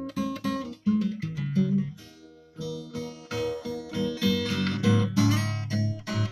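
Acoustic guitar playing strummed and plucked chords, with a short pause about two seconds in before fuller, bass-heavy chords resume.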